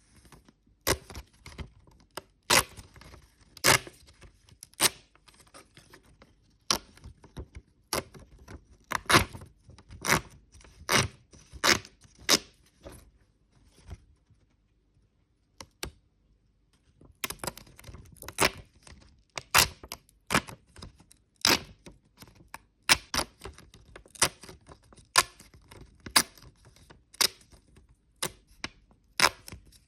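Postage stamps being torn apart along their perforations: a series of sharp, irregular crackling snaps, with a pause of about three seconds near the middle.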